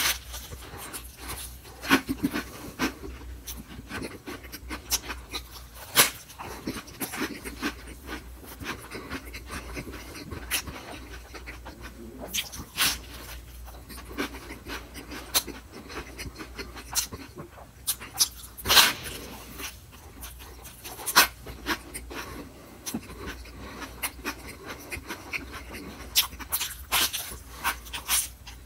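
Close-miked chewing of a leafy lettuce-and-meat wrap: irregular wet mouth smacks and crisp crunches of lettuce, with a few louder snaps of biting into the leaves.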